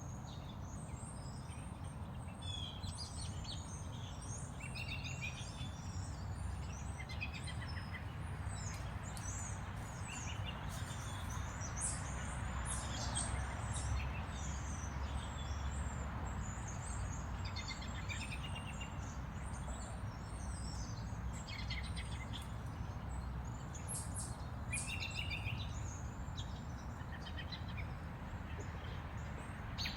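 Small birds chirping and calling on and off over a steady low rumble of outdoor background noise.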